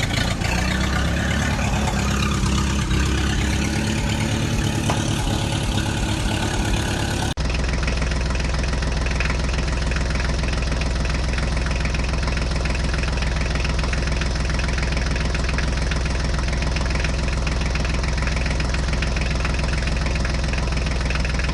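Tractor diesel engine running, with a sudden change about seven seconds in to a steady low idle.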